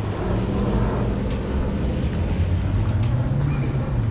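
Car engine running at low revs, its low note rising a little about three seconds in and easing back, over a steady hiss.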